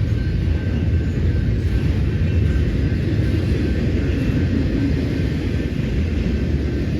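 Double-stack container freight train rolling past, a steady loud rumble of steel wheels on the rails.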